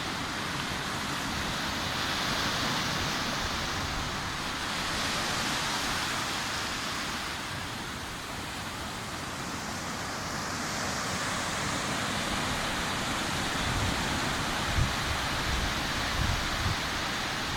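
Sea surf washing onto a beach: a steady hiss of breaking waves that swells and eases every few seconds. In the last few seconds, low gusts of wind buffet the microphone.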